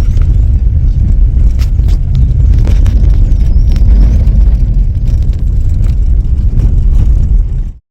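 Air rushing and buffeting against the microphone in a moving car: a loud, steady low rumble with a few faint clicks. It cuts off abruptly just before the end.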